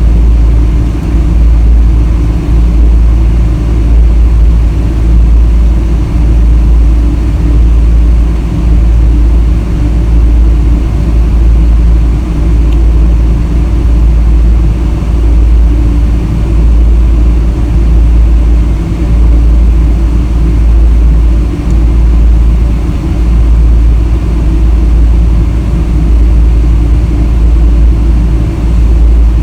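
Steady, loud low rumble of a Boeing 777-300 airliner's engines, with a faint steady hum of tones above it.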